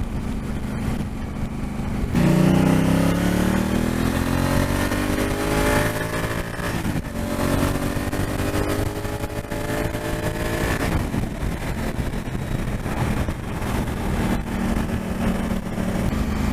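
Twin-cylinder adventure motorcycle engine pulling away under acceleration: a few seconds in the engine note jumps and climbs in pitch, drops back at a gear change about halfway through, climbs again, then settles to a steady cruise.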